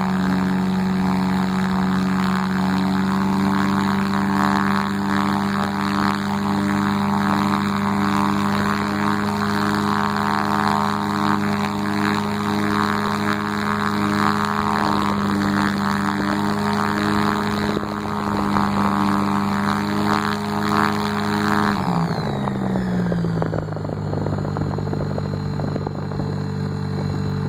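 ASG-32Mi motorglider's engine turning its propeller at a steady speed, then throttled back about 22 seconds in, the pitch falling and settling at a lower steady speed.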